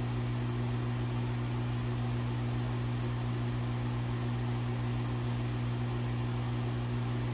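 Steady mechanical hum with a constant low tone and an even hiss, from a running motor or fan; it holds unchanged throughout.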